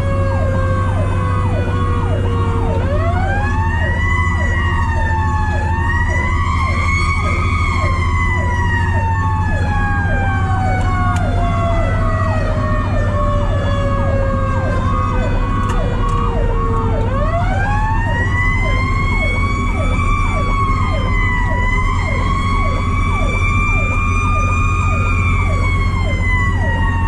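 Fire truck's mechanical 'Q' siren winding up twice, about three seconds in and again about seventeen seconds in, each time climbing quickly and then slowly running down in pitch. Over it runs a fast-yelping electronic siren, about two sweeps a second, with the truck's steady engine and road drone underneath, heard from inside the cab.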